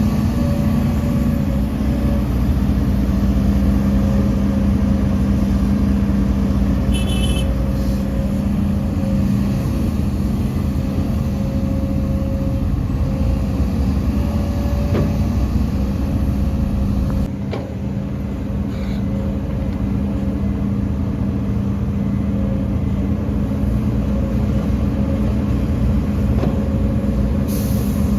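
Heavy diesel engine of earthmoving machinery running steadily at a constant pitch, with a short dip in loudness a little past the middle.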